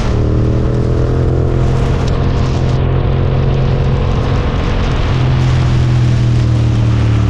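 Suzuki GSX-8S 776 cc parallel-twin engine running at a steady, roughly constant speed while riding, with wind and road noise underneath.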